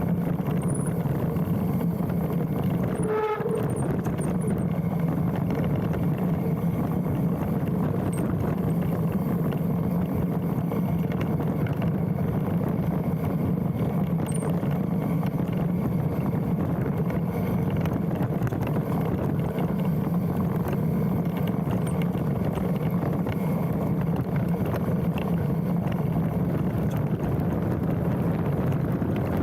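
Mountain bike rolling down a trail, a steady rumble of tyres, frame and wind on the handlebar-mounted camera. About three seconds in, the brake gives one short squeal as the rider brakes.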